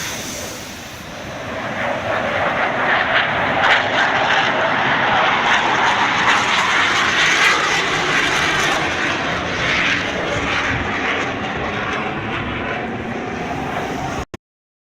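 Fixed-wing aircraft flying past, its engine noise swelling to a peak and then easing slightly; the sound cuts off abruptly near the end.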